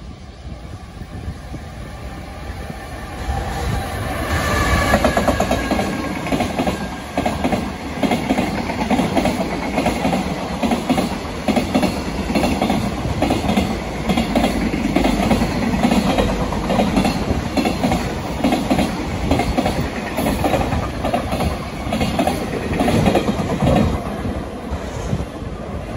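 A JR Freight train passes at speed behind an EF210 electric locomotive. The locomotive goes by with a brief falling whine, then a long string of freight wagons clatters over the rail joints in an even clickety-clack.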